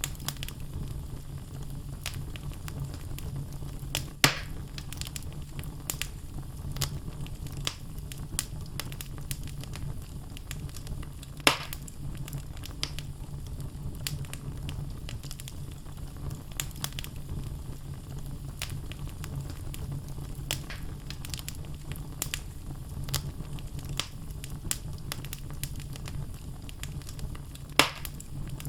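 Wood fire burning in a fireplace: logs crackling with a steady low rumble of flames, frequent small snaps, and three louder sharp pops, about 4 seconds in, about 11 seconds in and near the end.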